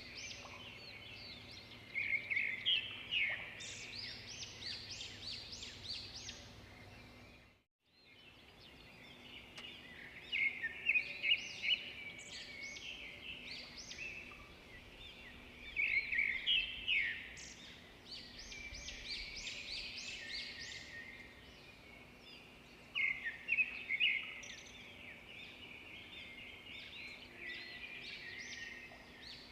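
Birds chirping and singing in short bursts of rapid high notes, a burst every few seconds, over a faint steady background hiss. The sound cuts out briefly about eight seconds in.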